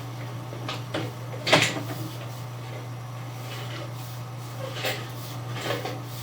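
Sewer inspection camera being pushed through a drain pipe, knocking and scraping against the pipe a few times over a steady low hum. The sharpest knock comes about a second and a half in, with softer clatters near the end.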